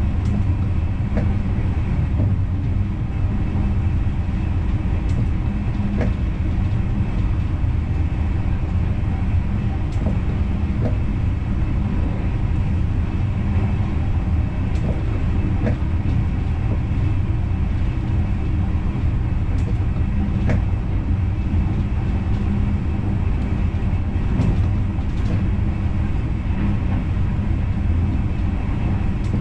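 Steady low rumble of an NS Intercity train running along the track, heard from inside the driver's cab, with a few faint clicks scattered through it.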